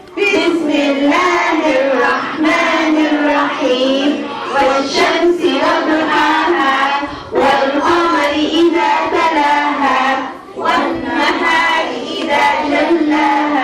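Children's voices singing a melody together, without instruments, in continuous phrases with short breaks for breath.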